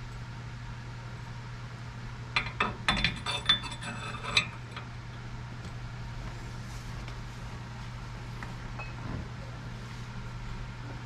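Metal parts and tools clinking together in a quick cluster of sharp clinks from about two to four and a half seconds in, over a steady low hum.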